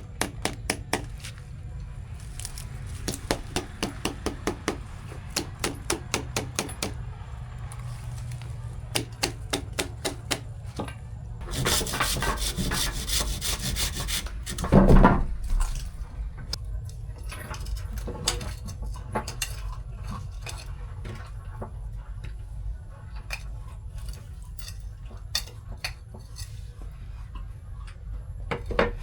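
Hands at work with utensils and wood: runs of quick knocks and clicks, a stretch of scraping about twelve seconds in, and one heavy thump about fifteen seconds in.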